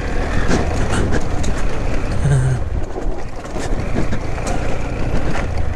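Motorcycle engine running steadily while riding a rough track, with scattered short knocks and rattles from the bike.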